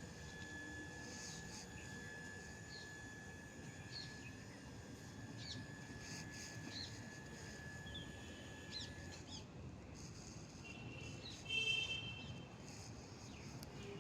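Outdoor ambience with birds chirping: short scattered chirps over a faint steady high tone that stops about nine seconds in, then a louder, brief bird call near the end.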